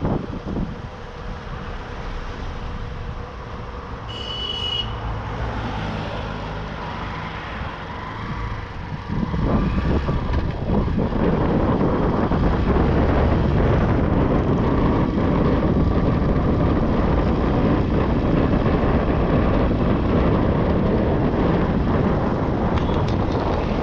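Motorbike ride through town traffic: a steady low engine hum at first, with a short high tone about four seconds in. About nine seconds in the sound jumps to a louder, steady rush of wind and road noise.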